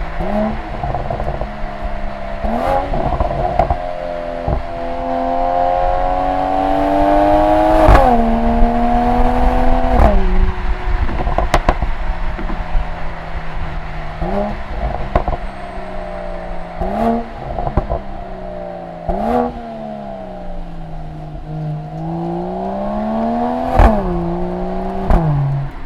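Exhaust of a Mercedes-AMG E 53's turbocharged 3.0-litre inline-six through the AMG Performance Exhaust, heard right at the tailpipe. The engine climbs and falls in pitch through quick gear changes of its 9-speed automatic, with sudden drops on upshifts and jumps on downshifts. Sharp cracks come at several of the shifts.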